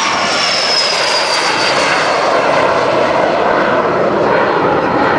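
Cessna Citation business jet flying past low overhead: a steady turbofan roar, with a high whine that falls in pitch over the first couple of seconds as it goes by.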